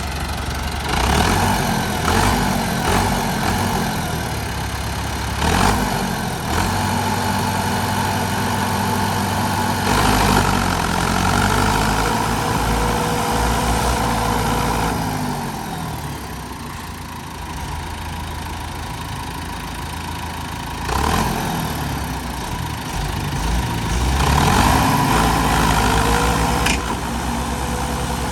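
Tractor diesel engines running and being revved up again and again under load. Each time the engine note climbs, holds, then drops back to idle, as when working a tractor out of deep mud. A few sharp knocks are heard along the way.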